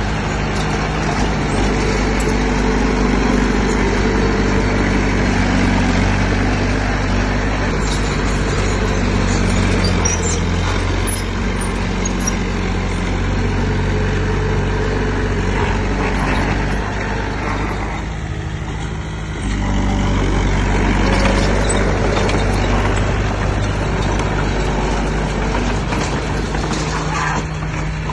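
Heavy diesel engine of earthmoving machinery running steadily under load, its note shifting as it works, with a brief easing of the engine about two-thirds of the way through.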